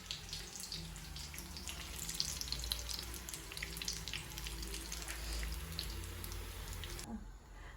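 Aalu chop, battered potato patties, frying in hot oil: a steady sizzle with many small crackles, cutting off abruptly about seven seconds in.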